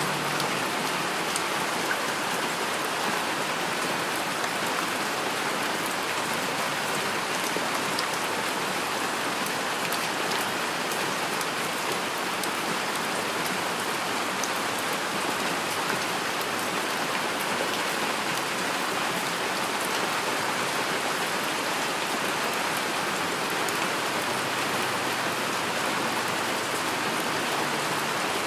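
Heavy rain falling steadily, an even hiss of rainfall with scattered individual drop ticks and no thunder.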